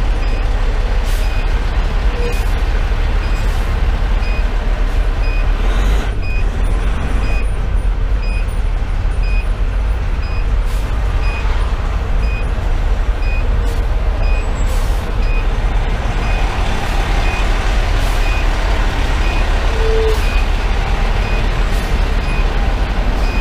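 The 470 hp Detroit Series 60 diesel of a Pierce Velocity fire engine running steadily, heard from inside the cab as a low rumble. A short, high electronic beep repeats evenly a little more than once a second over it.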